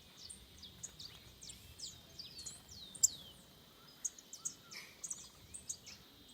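Songbirds calling: many quick, high chirps that slide downward, with a few longer falling whistles. A faint steady high-pitched tone runs underneath.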